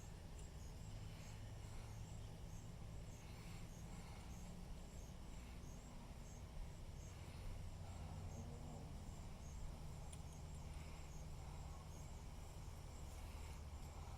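Faint crickets chirping in a steady, even rhythm of about two chirps a second over a low steady hum, with a few soft rustles.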